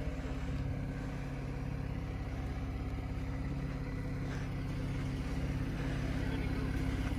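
Jeep Wrangler Rubicon's engine idling steadily, with a low, even hum.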